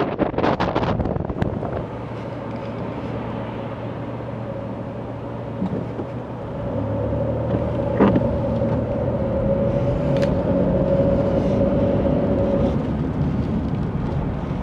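Motor vehicle running, with a low rumble of road noise and a steady hum. A single steady whine sounds through most of it, and there is wind buffeting on the microphone at the start.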